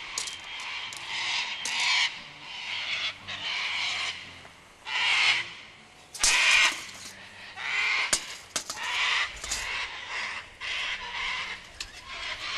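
Birds calling nearby: about a dozen harsh, rasping calls, each under a second long, repeated roughly once a second.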